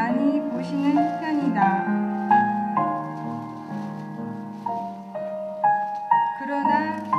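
Slow piano music with single notes struck and held. A voice is heard over it in the first couple of seconds.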